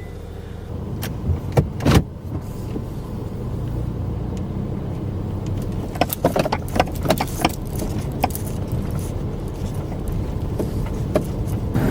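Car engine running with a steady low rumble, with scattered clicks and knocks, a cluster of them about six to eight seconds in.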